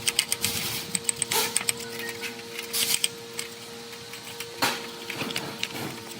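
Clusters of sharp metallic clicks and several short scraping strokes from hand work on metal parts, over a steady, even background hum.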